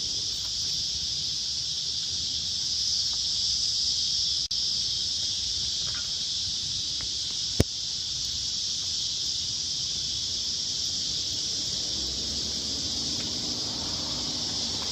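Steady, unbroken high-pitched insect chorus, with one sharp click about halfway through.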